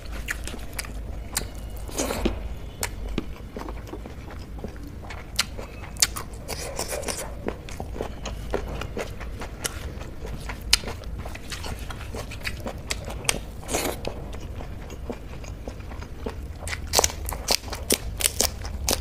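Close-miked eating by hand: wet chewing, lip smacks and mouth clicks as handfuls of soy-paneer bhurji and rice are eaten, with a cluster of crisp bites of raw spring onion near the end. A low steady rumble runs underneath.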